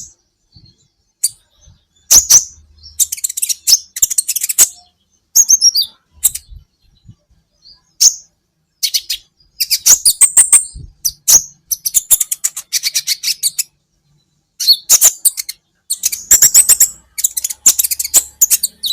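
Sunbird (kolibri ninja) singing: bursts of rapid, high-pitched chirps and short trills in quick phrases, separated by brief pauses, with a longer pause near the middle.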